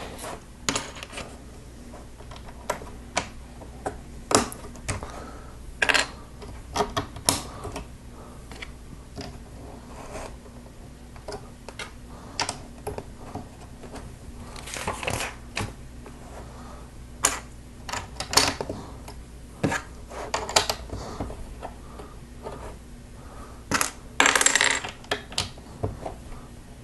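Small plastic Lego pieces clicking and clattering as they are handled and pressed together: irregular sharp clicks, with two longer rattles of pieces being sifted, about fifteen seconds in and near the end.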